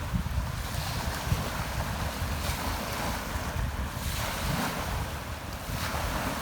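Rough sea surf breaking and washing ashore, with waves surging louder a few times, and wind buffeting the microphone with a low rumble.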